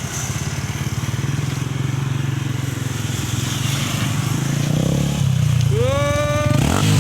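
Yamaha Sniper 150 single-cylinder four-stroke engine running through a Mody5 aftermarket power pipe exhaust, a steady bassy exhaust note that grows a little louder in the second half.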